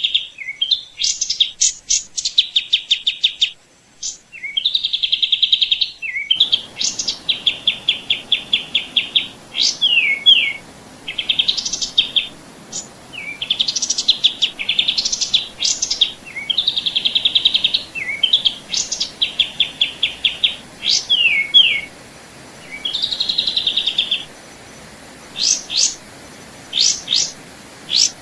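A songbird singing: short phrases of rapid, high trilled notes repeated every second or two, mixed with quick sweeping notes. A faint steady hiss comes in about six seconds in.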